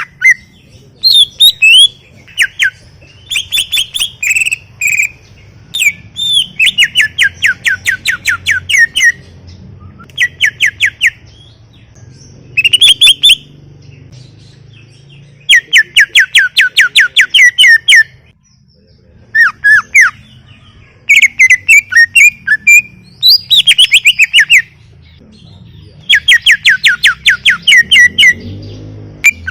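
Green leafbird (cucak ijo) in full song: loud phrases of rapid repeated whistled notes, about eight a second, each phrase one to three seconds long with short pauses between.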